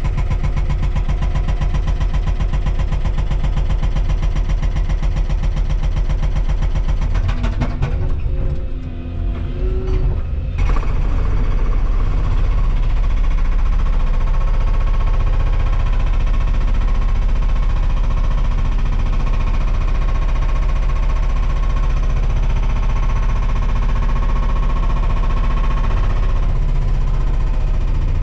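Volvo 235EL excavator's diesel engine and hydraulics running steadily under load. The engine dips and recovers briefly about eight seconds in, then runs steady again.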